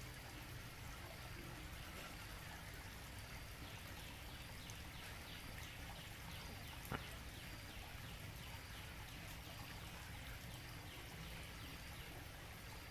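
Small garden waterfall splashing steadily into a fish pond, with a single sharp click about seven seconds in.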